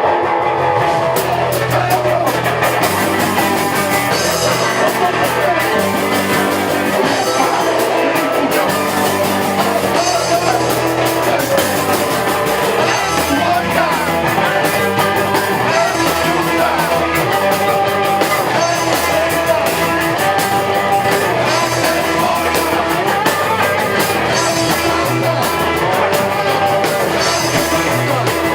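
Live rock band playing loud, with electric guitar, drum kit and singing.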